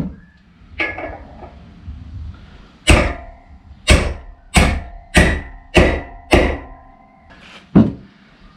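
Hammer blows driving a wheel bearing into a motorcycle's front wheel hub: about eight sharp metallic strikes, irregularly spaced and mostly over half a second apart, each leaving a short ring from the metal.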